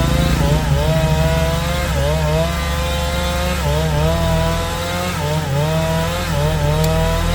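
Small engine running steadily, its pitch dipping briefly and recovering every second or so, as if its load keeps changing.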